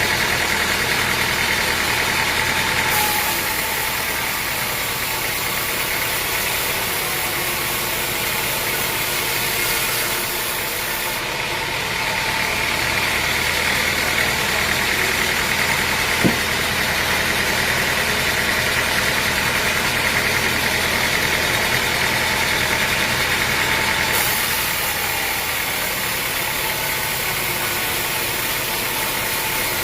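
Sawmill machinery running steadily: a constant mechanical drone with a hiss, with one sharp click about 16 seconds in.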